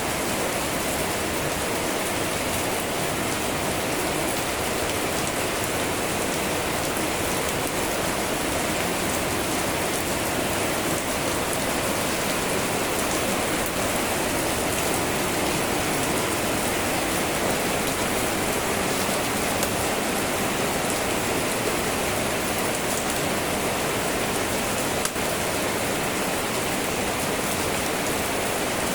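Steady heavy rain falling on a surface, an even hiss with no pauses.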